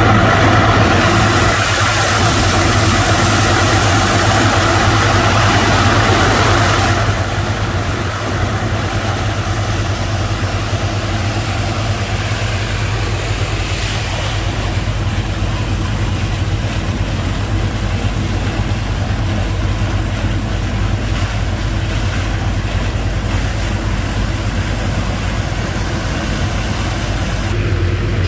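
Sand boat's engine running steadily with a low drone, under a loud rush of spraying, splashing water from washing down the boat that stops about seven seconds in, leaving the engine alone.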